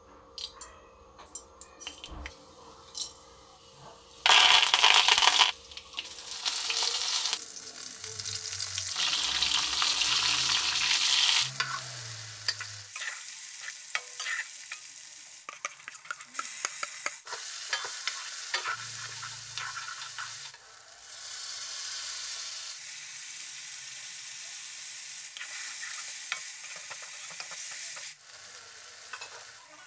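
Stuffed brinjals frying in hot oil in a kadai, sizzling steadily, with a very loud burst of sizzling about four seconds in. A steel ladle scrapes and clicks against the pan as they are turned.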